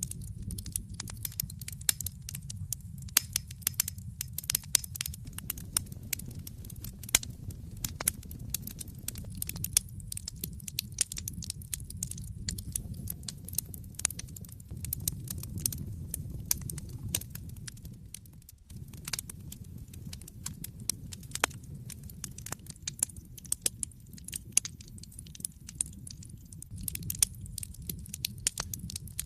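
Wood fire burning in a fireplace: dense, irregular crackling and sharp pops over a low, steady rumble of the flames.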